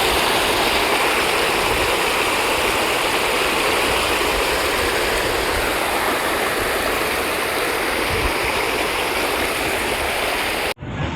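Water rushing out through an open spillway gate of the Bisalpur Dam, a steady, loud roar of falling water that cuts off abruptly near the end.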